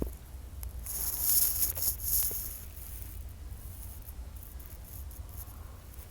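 Steady low hum of the running phone-board rework heating equipment, with a burst of high, scratchy hiss from about one to two and a half seconds in.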